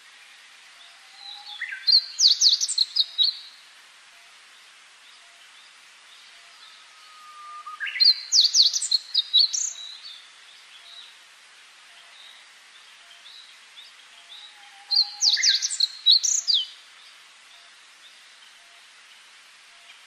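A songbird singing the same loud phrase three times, each a low drawn-out whistle rising into a quick burst of high, sharp notes, over a steady faint hiss.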